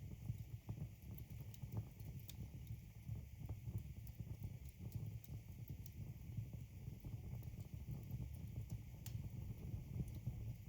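Wood logs burning in a fireplace: a steady low rumble of flame with frequent, irregular sharp crackles and pops from the burning wood.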